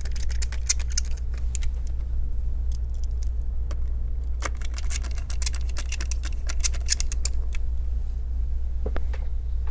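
Small clicks and clinks of laptop parts, screws and a hand tool being handled during reassembly, in two busy spells. Under them runs a steady low hum.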